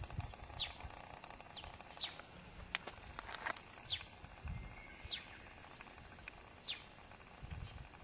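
Birds calling with short, high chirps that fall in pitch, about one a second, over a low, uneven rumble; a couple of sharp clicks near the middle.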